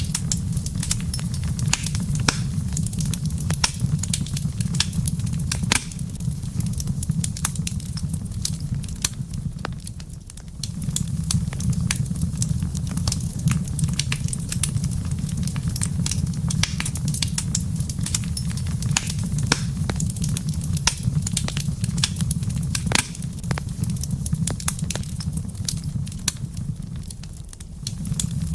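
Wood fire in a fireplace crackling and popping with frequent sharp snaps over a steady low rumble. The low rumble briefly drops away about a third of the way in and again near the end.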